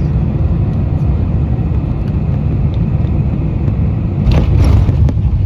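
Boeing 747-400 on its landing roll, heard from inside the economy cabin: a loud, steady rumble from the engines and the wheels on the runway. Cabin fittings clatter and rattle briefly about four seconds in.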